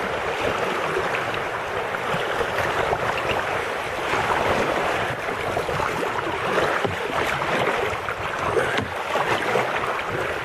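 Creek current rushing steadily around a kayak as it runs a riffle.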